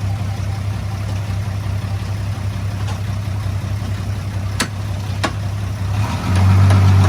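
Heavy-equipment diesel engine running steadily with a low hum, growing clearly louder about six seconds in. Two sharp clicks come a little before that.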